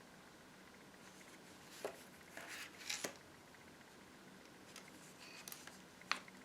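Pages of a handmade paper junk journal being handled and turned: a few short paper rustles and several sharp clicks, the sharpest near the end.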